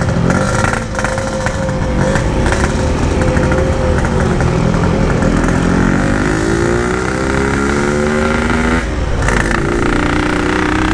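Yamaha RX-King 135cc single-cylinder two-stroke engine running while riding, its pitch climbing from about halfway through, dropping off sharply about nine seconds in, then holding steady. The engine is down on power and, as the rider says, can't pull.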